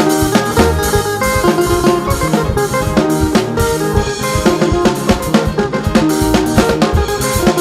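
Upbeat gospel band music with a drum kit playing a steady beat over keyboard or guitar chords.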